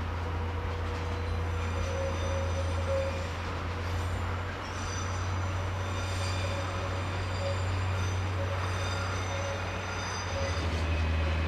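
Train moving through a station: a steady low hum throughout, with thin high-pitched wheel squeal coming in about halfway.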